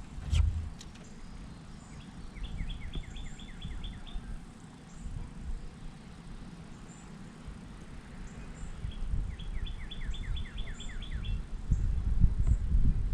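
A songbird singing twice, each phrase a quick run of about eight repeated slurred notes, over a low rumbling noise that grows louder near the end.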